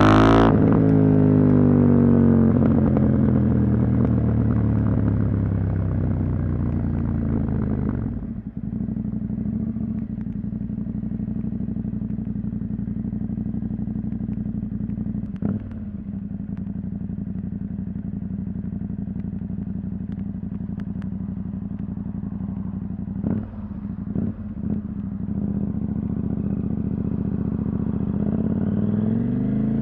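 Husqvarna Norden 901's 889 cc parallel-twin engine through a decat exhaust with the catalytic converter removed. It winds down as the throttle rolls off, drops suddenly to a low steady run about eight seconds in with a few brief clicks, then revs climb again near the end.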